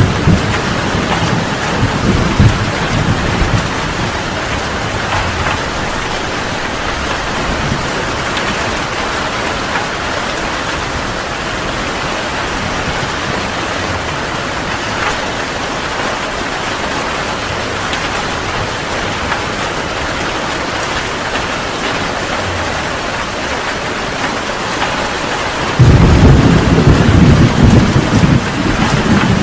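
Heavy rain falling steadily. Thunder rumbles low in the first few seconds, and a louder rumble of thunder breaks in suddenly near the end.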